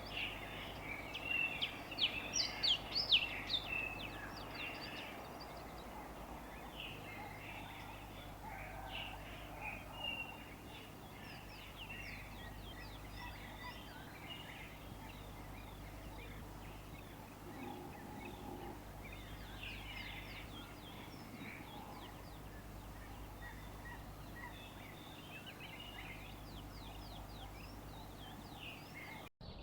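Many songbirds chirping and singing together in overlapping short calls, busiest and loudest in the first few seconds, over a steady low background noise. The sound cuts out for an instant near the end.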